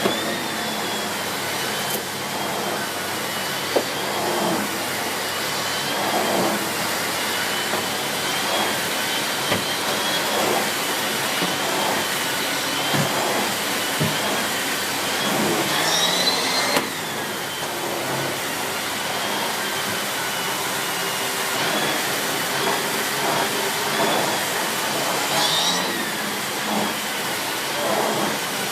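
Miele C2 Compact / S6 cylinder vacuum cleaner with its 2000 W motor running steadily while its floorhead is worked back and forth over carpet. The motor's whine wavers with the strokes and rises briefly twice, about halfway through and near the end.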